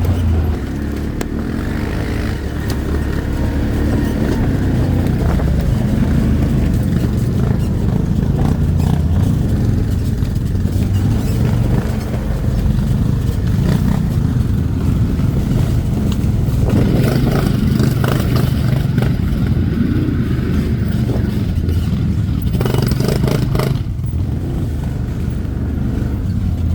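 ATV engine running steadily while under way, with brief rattling clatter a little past the middle and again near the end.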